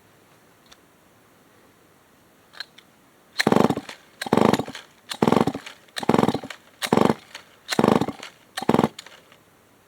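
Old Remington SL9 chainsaw being pull-started: seven quick pulls on the recoil starter about a second apart, the engine turning over with each pull but not catching.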